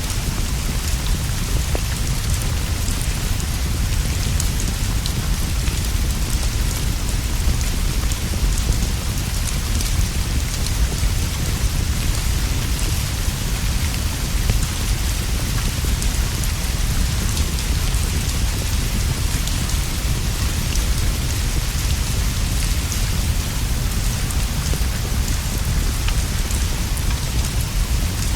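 Steady rain falling on leaves and a roof, with a constant low rumble underneath and scattered small ticks and pops throughout.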